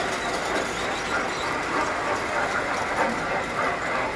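Tinplate toy trains running on metal track, a steady rattling rumble.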